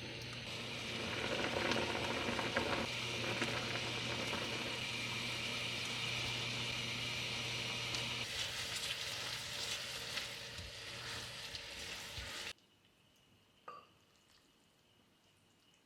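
Food sizzling as it fries in a hot pan. The sizzle stops abruptly about twelve seconds in, leaving quiet room tone with one light click.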